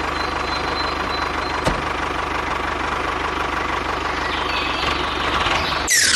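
Small engine running steadily, with a fast low pulsing. A loud downward-sweeping whoosh comes in at the very end.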